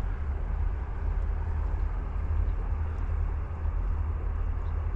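Steady rush of flowing river water, with a deep low rumble underneath.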